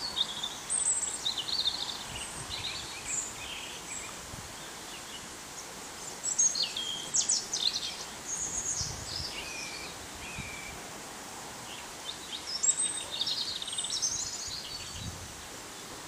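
Small songbirds chirping and trilling in short, high phrases, in three spells, over a steady outdoor hiss.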